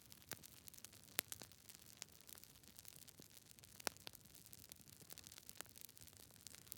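Wood campfire crackling: irregular sharp pops and snaps over a faint steady hiss, with louder pops about a second in and again near four seconds in.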